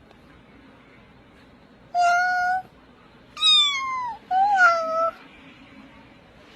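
A cat meowing three times in quick succession, each meow under a second long; the second one falls in pitch.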